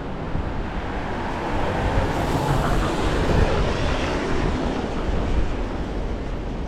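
Strong wind buffeting the microphone over a steady hiss of rain and street traffic, with the hiss swelling about two to four seconds in.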